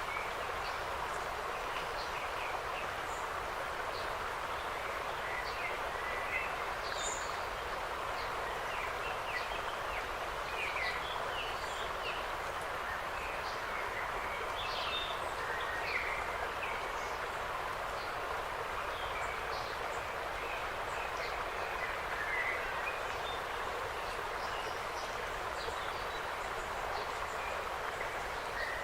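Woodland ambience: a steady rushing background with many short, scattered bird chirps and calls throughout.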